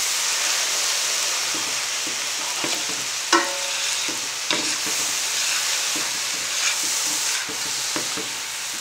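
Fried rice sizzling in a large steel pan while a metal spoon stirs and scrapes through it. The spoon clinks against the pan now and then, with one louder ringing clank a little over three seconds in.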